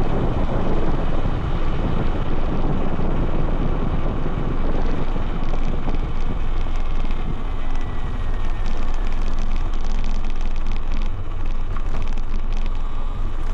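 Wind rushing over the handlebar-mounted camera's microphone on a Talaria Sting R MX4 electric dirt bike riding fast across a dry lake bed, with tyre noise from the playa surface. A faint falling whine comes through about seven seconds in.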